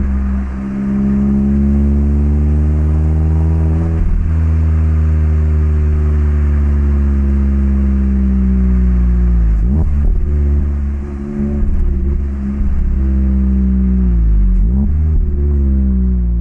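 Mazda ND Roadster's 1.5-litre four-cylinder heard through an HKS Legamax Sports aftermarket exhaust, revving up under acceleration with a gear change about four seconds in, then running at steady revs. Twice later on the engine note dips sharply and picks back up, as with a change of gear.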